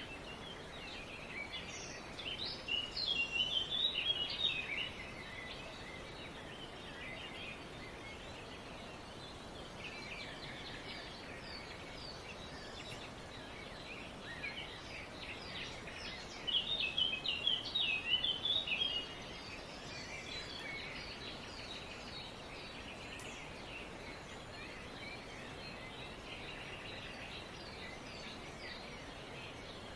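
Several wild birds chirping and singing together, with two louder runs of quick chirps, about two seconds in and again about sixteen seconds in, over a steady background of softer bird chatter.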